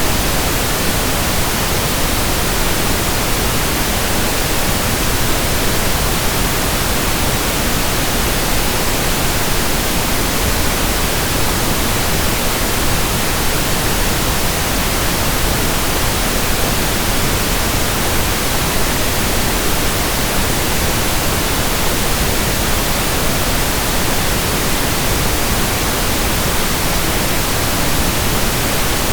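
Steady pink noise: an even, unchanging hiss spread across all frequencies.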